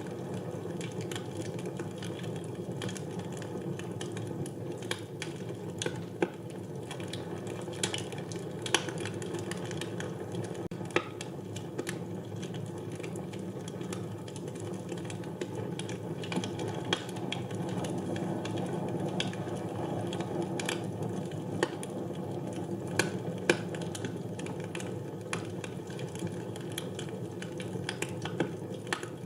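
Wood fire burning in a fireplace: a steady low rush of flames with irregular crackles and pops, and a few louder snaps scattered through.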